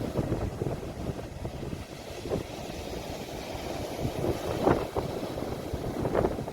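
Sea waves recorded on a phone, heard as a steady, noisy low rumble with wind buffeting the microphone.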